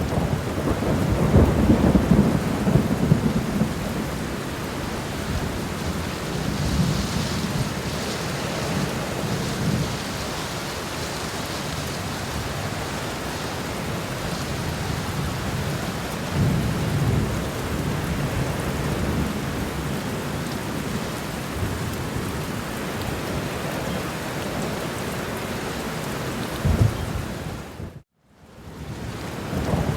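Steady rain with low rolls of thunder: the strongest come about a second in and near the middle, and a short sharp crack comes near the end. The rain sound fades out and quickly back in shortly before the end.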